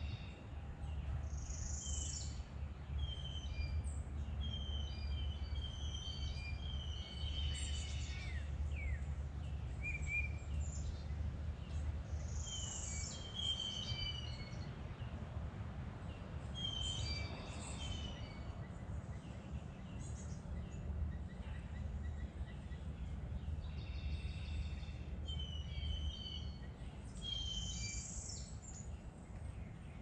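Birds chirping and singing in short, repeated phrases, over a steady low rumble that eases near the end.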